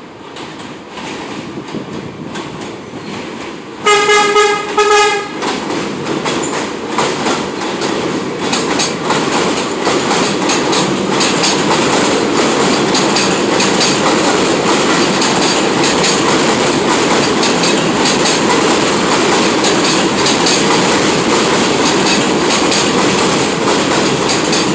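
R46 subway train approaching and running through the station without stopping, sounding two short horn blasts about four seconds in. After the horn it rushes past loudly, with wheels clacking over rail joints.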